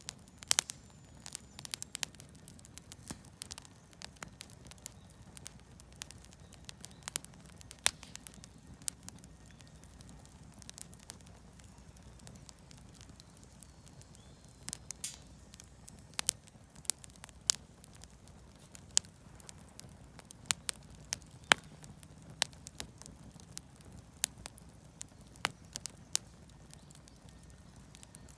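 Campfire of scrap wood offcuts and firewood crackling, with irregular sharp pops over a low steady rumble.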